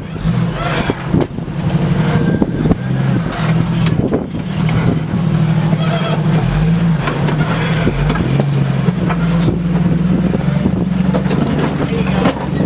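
Jeep Cherokee XJ engine running through a rock-crawling climb, its revs stepping up and down, with scattered sharp knocks.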